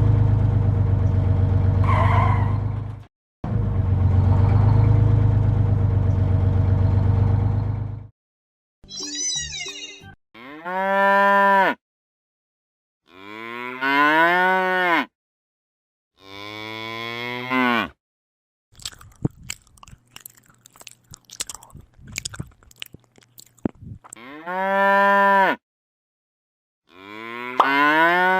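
A loud, low, steady drone in two parts, about 3 and 5 seconds long, followed by cattle mooing: five short calls, each rising and then falling in pitch, with a stretch of clicking between the third and fourth call.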